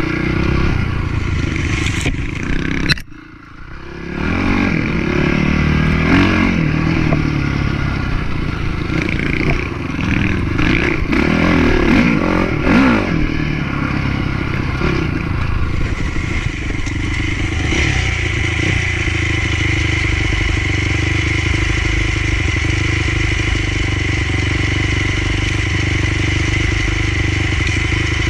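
Motocross bike engine revving up and down, with a brief sharp drop in sound about three seconds in, then running at a steadier, held speed through the second half.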